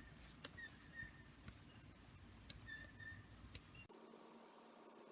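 Near silence: faint background with a steady high-pitched whine and a few faint ticks, changing abruptly to a different quiet background about four seconds in.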